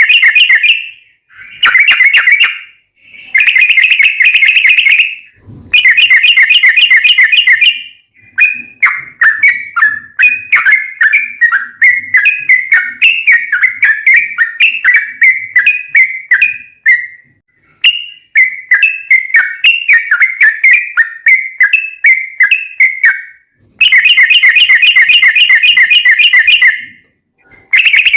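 Yellow-vented bulbul (trucukan) singing loudly: several rapid rolling trills of bubbly notes, each a second or two long with short breaks between. In the middle comes a longer run of varied, jumpy chattering phrases, and the rolling trills return near the end.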